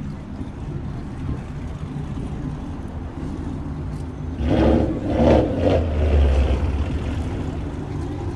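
Car engine idling with a steady low hum, then louder in three or so short pulses a little past halfway, as if lightly revved.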